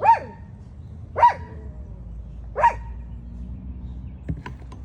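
A dog barking three times, short barks about a second and a half apart.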